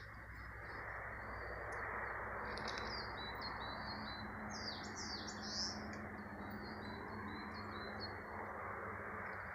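Wild forest songbirds of unidentified species calling: a string of short high chirps, with a burst of louder gliding calls about five seconds in. A steady rushing noise runs underneath.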